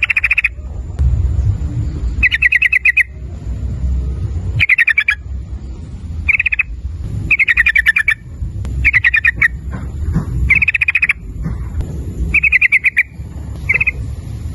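Yellow-vented bulbul (trucukan) calling over and over in short, quick bubbling phrases, one every second or two. A steady low rumble and a faint high steady whine run underneath.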